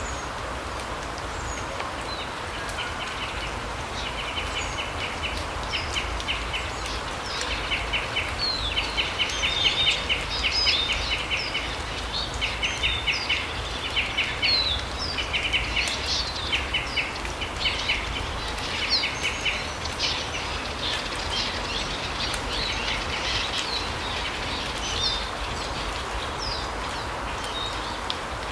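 Small forest birds calling: repeated short bursts of rapid trilled notes and quick high chirps, busiest in the first two-thirds, over a steady low background rumble.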